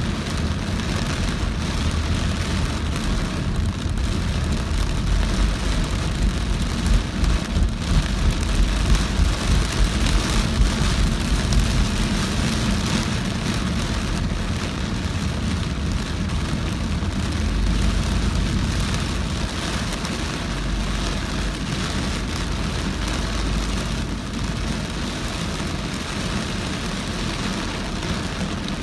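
Heavy rain beating on a moving car, with tyres on a wet, flooded road and a steady low road rumble underneath. The rain is a little louder and more uneven for a few seconds near the start.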